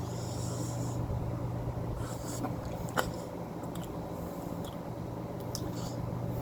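A person eating spicy food: small mouth clicks and hissy slurps or breaths, one sharper click about three seconds in, over a steady low hum.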